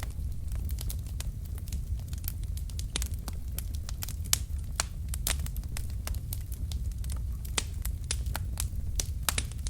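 Log fire in a fireplace crackling and popping: irregular sharp snaps from the burning wood over a steady low rumble of the flames.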